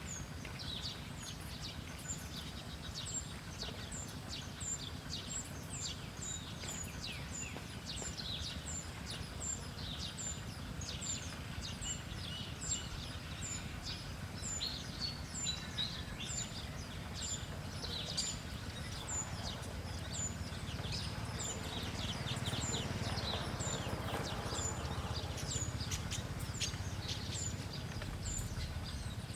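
Small birds chirping: one short high note repeated about twice a second, mixed with other scattered chirps, over a low rumbling background noise that grows louder in the second half.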